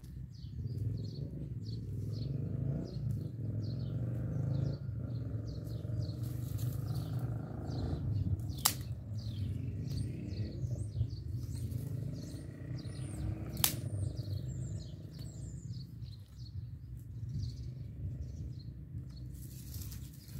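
Small birds chirping over and over, short high calls, above a steady low rumble. Two sharp knocks stand out, about nine and fourteen seconds in.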